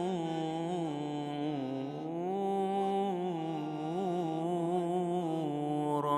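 A man's voice singing an Arabic ibtihal, drawing out one long melismatic phrase with the pitch winding up and down. It breaks off right at the end.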